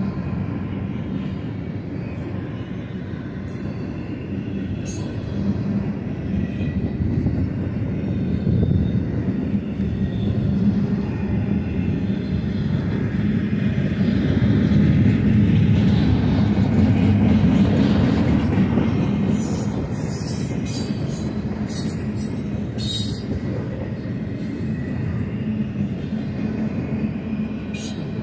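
Double-stack intermodal freight train cars rolling past: a steady rumble of steel wheels on the rails that swells louder about halfway through, then eases. Short sharp clicks and hisses come and go over the rumble.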